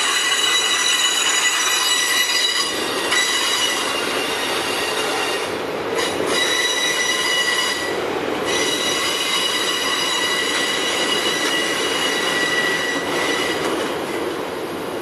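Freight train of autorack cars rolling past, with a steady high-pitched squeal from the steel wheels on the rail over the cars' rolling rumble. The squeal drops out briefly twice, about six and eight seconds in.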